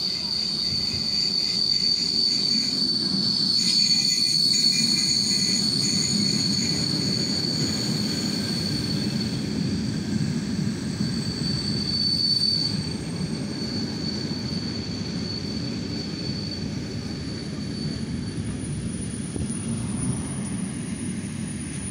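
ED9M electric multiple unit rolling along the platform track, its wheels giving a steady high-pitched metallic squeal over a low rumble. The squeal fades out a few seconds before the end, leaving the rumble and a faint higher whine.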